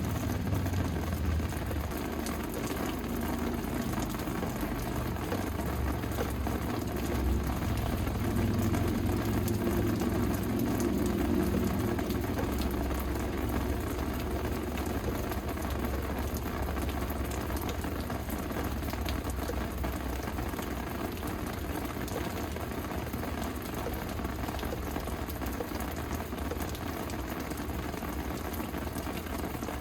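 Steady rain falling and pattering on surfaces, with fine drop ticks throughout. A low rumble sits under it in the first half and fades out a little before the middle.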